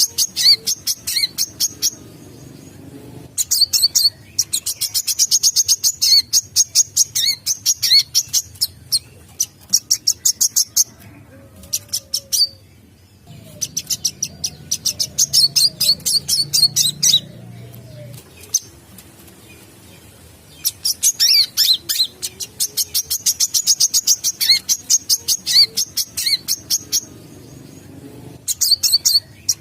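Brown-throated sunbird (kolibri kelapa) song used as a trapping lure: bouts of rapid, high-pitched chirps lasting several seconds each, repeated with short pauses between them.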